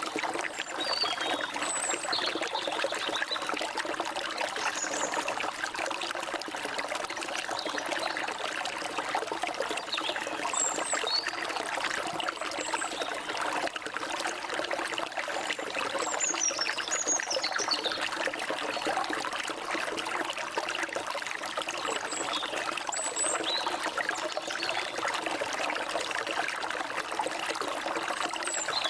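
Stream water flowing steadily, with scattered high bird chirps over it, among them a falling run of notes about two-thirds of the way through.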